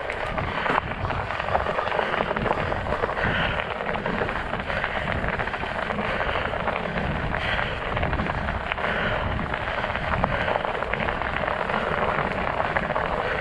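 Studded fat-bike tires rolling over ice and crusty snow: a continuous crunching crackle full of small sharp clicks.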